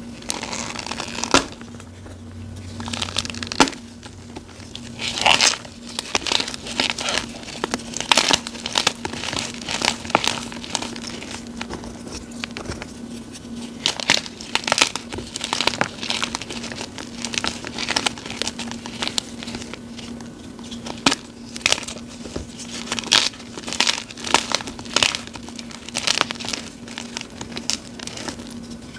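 Gym chalk blocks topped with cornstarch and glitter being crushed: a continuous run of crunchy crackles and crumbles in irregular clusters, over a faint steady hum.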